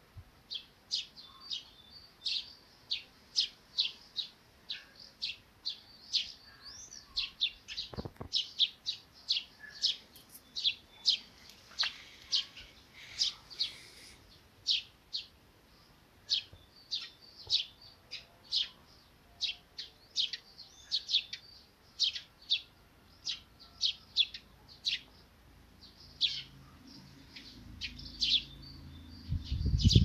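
Small birds chirping over and over, short high chirps about two a second. A low rumble builds near the end.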